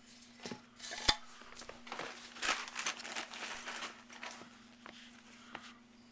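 Shampooer brushes and attachments being handled and set down: scattered light clicks, knocks and rustling, with one sharper knock about a second in, over a faint steady hum.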